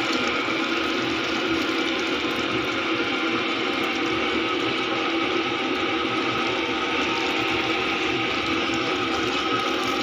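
Water running steadily, a continuous rush with a constant mechanical hum under it.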